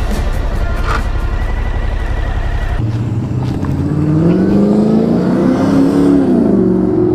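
A steady low rumble for the first three seconds, then a motorcycle engine note that climbs steadily in pitch as it accelerates, peaks, and falls away near the end.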